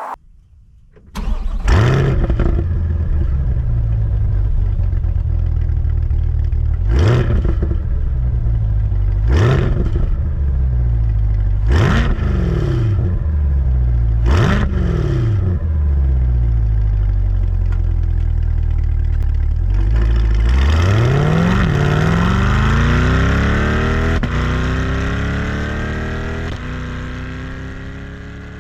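C8 Corvette Stingray's 6.2-litre LT2 V8 through the stock factory exhaust, starting about a second in with a loud flare, then idling. It is blipped four times a few seconds apart, then given one longer rev whose pitch falls slowly back toward idle, and the sound fades near the end.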